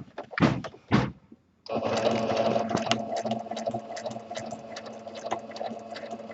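Sewing machine starting up about a second and a half in and running steadily for free-motion stitching, its needle strokes coming in a fast, even clatter over a steady motor hum. Before it starts, two brief thumps.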